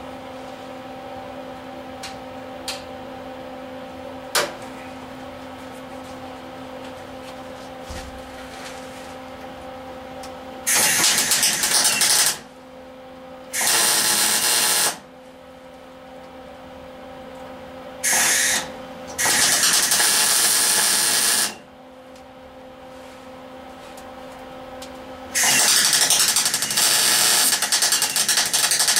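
MIG welder arc crackling on thin sheet-metal cab floor in five bursts of about one to four seconds each, short tacks and beads, with a steady low hum in the gaps. A few light clicks come in the first few seconds.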